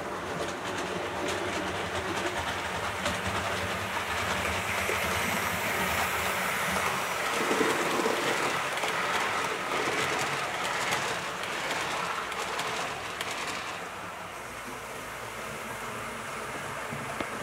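Hornby OO gauge model locomotive pulling carriages round a model railway layout: motor whirring and wheels clicking over the track, louder as the train passes close, then quieter about fourteen seconds in.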